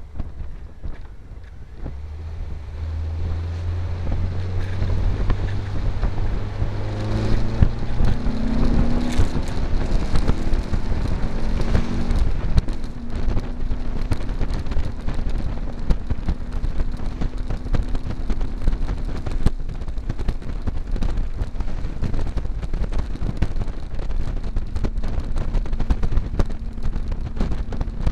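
Open buggy's engine accelerating away over the first several seconds, rising in pitch and loudness, then running steadily at cruising speed, with wind rushing over the microphone.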